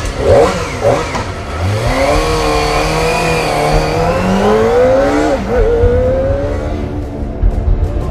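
Kawasaki Ninja ZX-25R's 250cc inline-four engine, blipped twice and then accelerating hard, its pitch climbing steadily. It drops briefly about five seconds in and climbs again.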